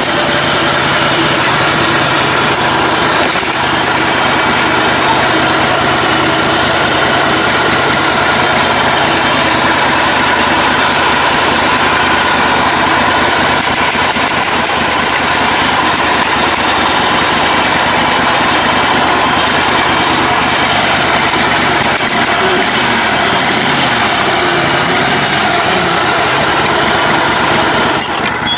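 Engine of a lifted, modified riding lawn tractor running steadily and loud.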